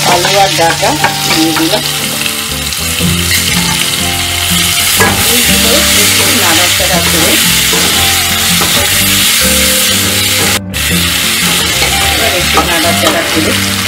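Sliced potatoes and drumstick pieces frying in hot oil in a kadai, a steady loud sizzle, with the scrape and clink of a metal spatula stirring and turning them. The sound cuts out for an instant about ten and a half seconds in.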